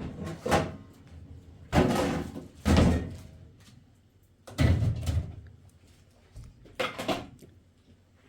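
Five dull bangs or knocks, irregularly spaced, the third and fourth the loudest.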